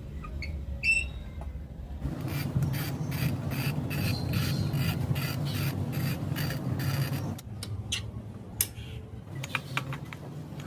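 Rhythmic scraping strokes, about three a second, lasting about five seconds over a low hum, followed by a few scattered clicks.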